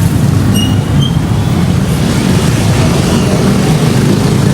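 Steady low rumble of a moving vehicle, with a brief high squeal-like tone about half a second to a second in.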